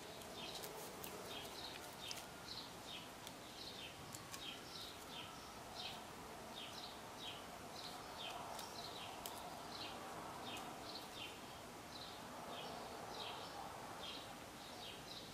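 A bird chirping over and over, faint short falling chirps about twice a second.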